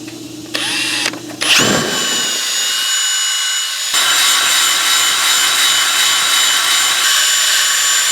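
Electric power tool working on steel, running with a steady high-pitched whine that starts about a second and a half in, eases briefly, then runs again.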